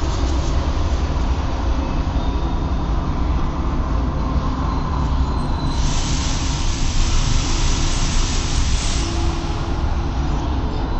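Train running on rails: a steady low rumble, with a hiss that comes in about six seconds in and lasts about three seconds.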